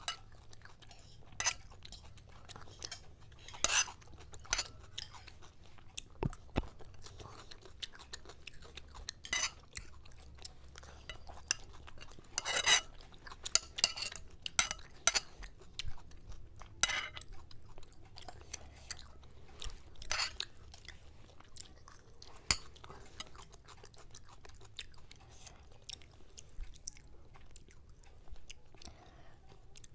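Close-up chewing and crunching of fried food such as Mughlai paratha and crumbed chicken chop, with short sharp clicks of forks and spoons against plates now and then.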